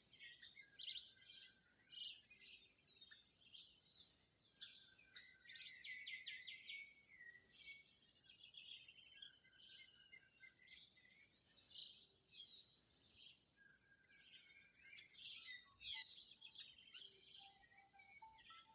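Crickets or other insects keep up a steady high-pitched trill while many small birds chirp and call over it, faintly. A short, louder, very high call comes about 15 s in, and lower whistled notes join near the end.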